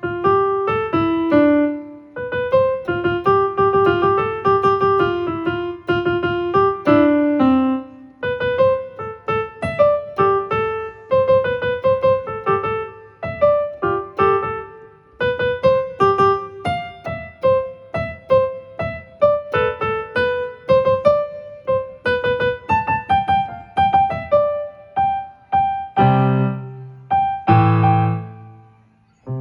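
Electronic keyboard with a piano sound playing a melody note by note over lower accompanying notes. Near the end it lands on two low chords that are left to ring and fade out.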